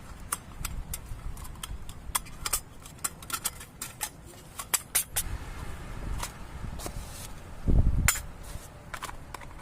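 Scattered sharp taps and clicks at an irregular pace over a low rumble, with one dull low thump about eight seconds in.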